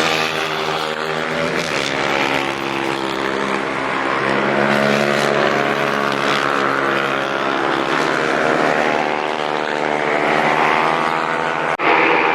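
Racing motorcycle engines running on the track, a steady droning note that rises and falls in pitch as the bikes accelerate and ease off, with a brief break near the end.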